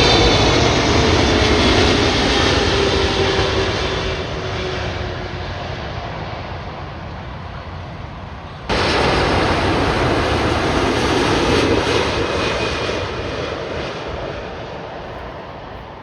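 Jet airliner passing close, a loud engine roar with a whine that slowly falls in pitch as it fades away. About halfway through the sound jumps suddenly to another loud jet roar, which also fades.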